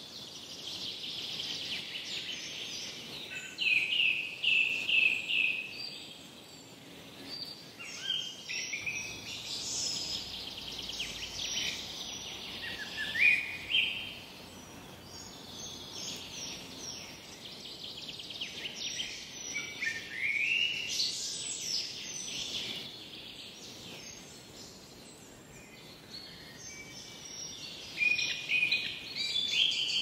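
Songbirds singing: a steady run of chirps, quick trills and short rising whistles.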